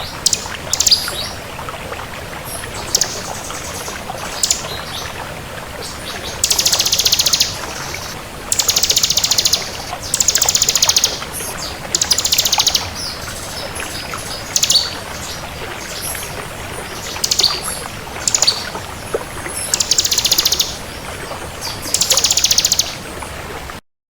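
Bar-winged prinia (ciblek kristal) singing: a series of rapid, high, rattling trills, each up to about a second long and a second or two apart, over a steady hiss. The sound cuts off abruptly near the end.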